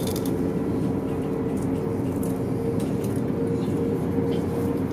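Steady running noise of a Stadler FLIRT passenger train heard from inside the carriage: a low rumble with a constant hum and a few light clicks.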